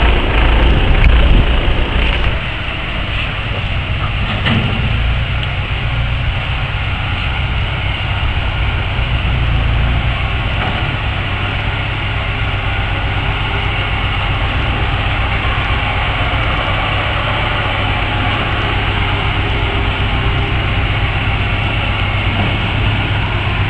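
A vehicle engine running steadily with a low hum, under a loud rushing rattle; it is loudest in the first two seconds.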